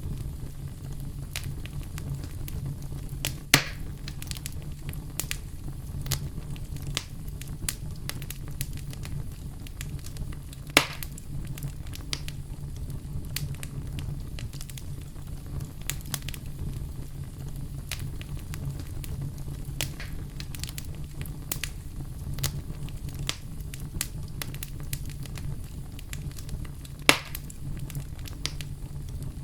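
Campfire burning with irregular crackling over a steady low rumble, and three louder pops from the burning wood.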